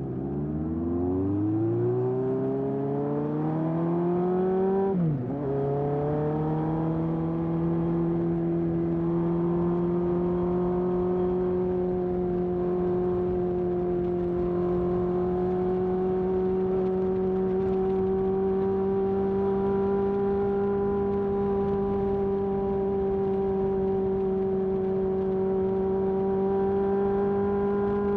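1981 Honda CB750F's air-cooled inline-four through a period Yoshimura exhaust. It accelerates with rising pitch for about five seconds, then drops briefly in a quick upshift, then runs at a steady, slowly climbing pitch while cruising.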